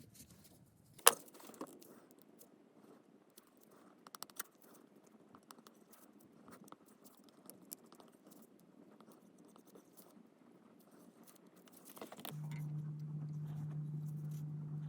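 Small metallic clinks and taps of parts and tools being handled, with one sharp click about a second in. About twelve seconds in, a steady low hum starts and keeps going.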